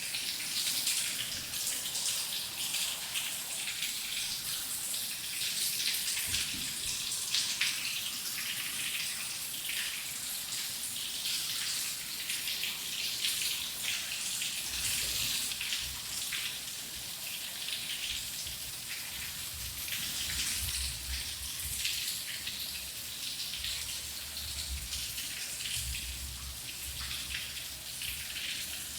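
Steady rain with dense patter of individual drops and splashes, with a faint low rumble underneath in the second half.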